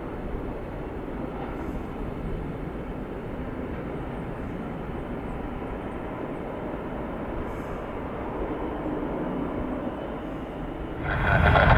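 Steady rumble of distant jet aircraft at an airport. It gets clearly louder about a second before the end, with a heavier low rumble.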